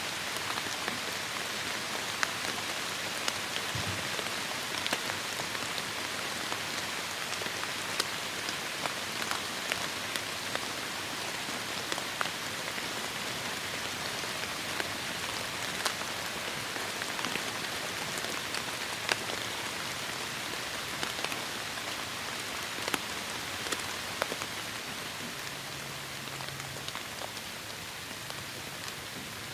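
Heavy rain falling steadily, an even hiss with many sharp drop splats and ticks scattered through it, easing slightly near the end.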